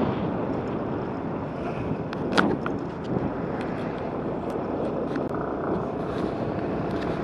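Steady rush of wind and vehicle noise on the microphone, with one short, sharper sound about two and a half seconds in.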